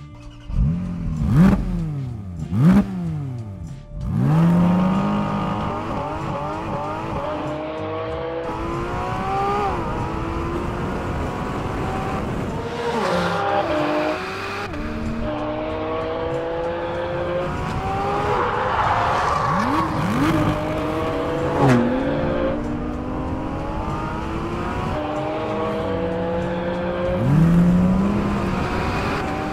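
The Porsche 718 Cayman GT4 RS's naturally aspirated, high-revving flat-six revving hard under track driving. There are two sharp rev blips in the first few seconds, then repeated climbs in pitch that drop back at each upshift, and a few downshift blips later on.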